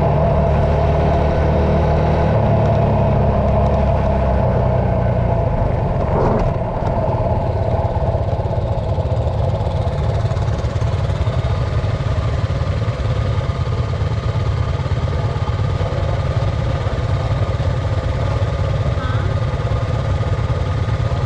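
Dirt bike engine running steadily at low revs, its note shifting once about six and a half seconds in and then settling into an even idle-like rumble.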